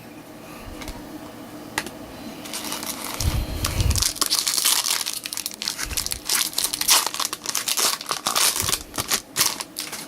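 A trading-card pack wrapper being torn open and crinkled in the hands, a dense crackling that builds from about two seconds in, with a soft thump of handling around three seconds in.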